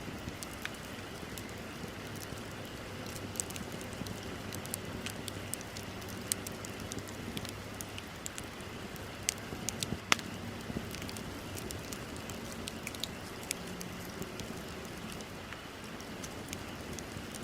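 Wood bonfire burning, with scattered sharp crackles and pops over a steady hiss; one louder pop comes about ten seconds in.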